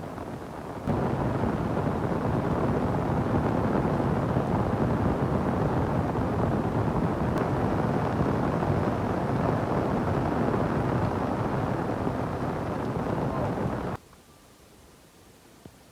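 Steady, loud rushing noise, deep and full with little hiss, that starts suddenly about a second in and cuts off suddenly near the end.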